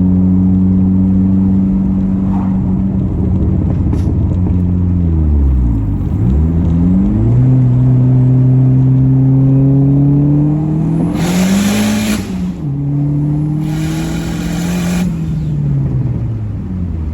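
Dodge SRT-4's turbocharged 2.4-litre four-cylinder under hard acceleration, the engine note climbing through the revs and dropping sharply at each gear change, three times. Two stretches of loud hissing come in as it pulls, the second about a second after the first.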